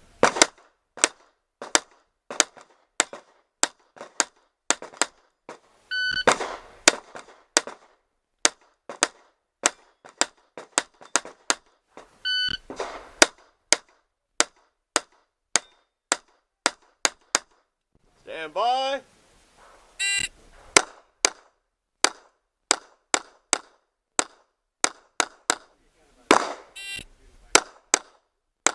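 Glock 26 subcompact 9mm pistol fired in quick strings, roughly two shots a second. Each string is begun by the beep of a shot timer, and a voice is heard briefly between strings.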